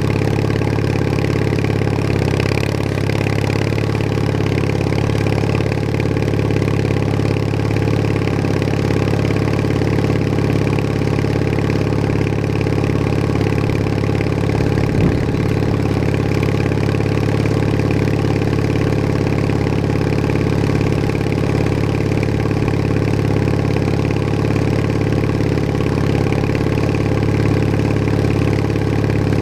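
Bolens HT20 garden tractor engine running at a steady speed as the tractor drives along, with a single brief knock about halfway through.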